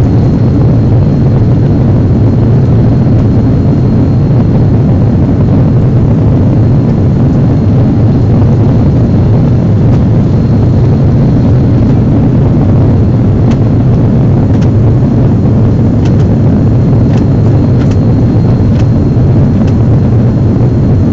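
Aircraft cabin noise in flight: a loud, steady, low drone of engines and airflow that does not change.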